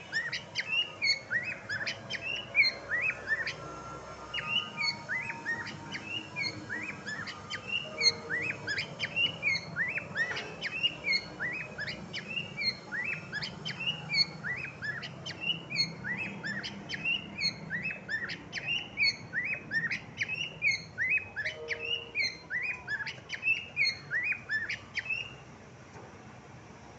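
Cockatiel chirping in a fast, steady run of short, sweeping calls, several a second, that stops near the end.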